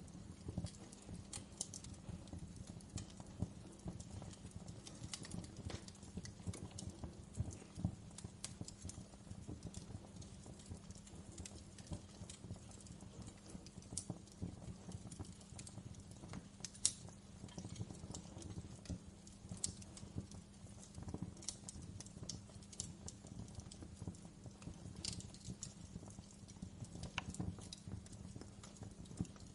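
Wood fire crackling in a fireplace: a steady low rumble of flames with frequent irregular snaps and pops, a few sharper pops standing out.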